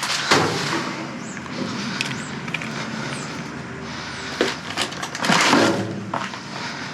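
Rustling and knocking of bags and packages being handled and sorted, with louder rustles near the start and about five seconds in and a sharp click just before.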